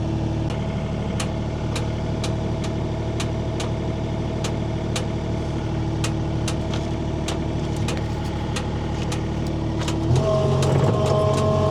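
Skid steer engine running steadily under a held whine, with scattered sharp clicks and knocks. About ten seconds in, the engine note steps up and grows louder as it is throttled up.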